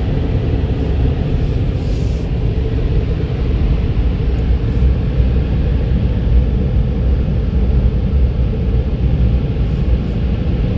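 Drive-through car wash air dryer blowers running, blasting air over the car to blow off the rinse water, heard from inside the car as a loud, steady, deep rush.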